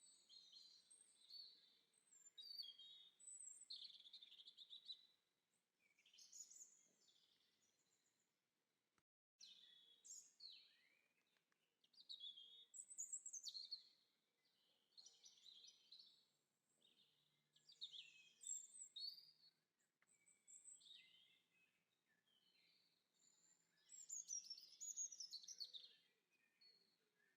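Faint songbird song: short, varied phrases of chirps and trills repeating every second or two, with a brief cut-out about nine seconds in.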